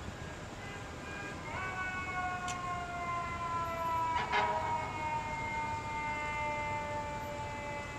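Fire engine siren winding up sharply about a second and a half in, then slowly winding down in pitch, the long falling wail of a mechanical siren. A short sharp knock about four seconds in sits on top of it.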